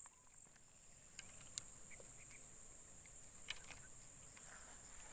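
Near silence with a faint, steady, high-pitched insect drone and two small clicks, about one and a half and three and a half seconds in.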